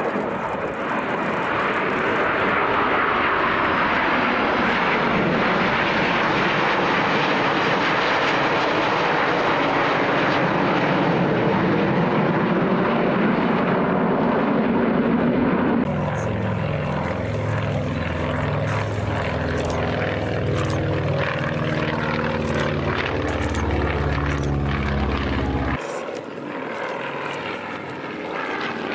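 Aircraft flying a display: loud, continuous engine noise that changes abruptly twice, the middle part a steady low drone like propeller engines.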